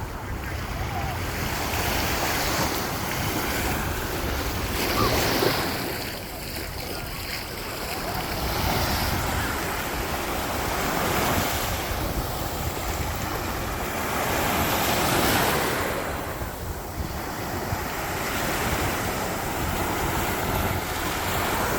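Sea waves breaking on a sandy beach, the surf swelling and falling back every few seconds, with wind rumbling on the microphone.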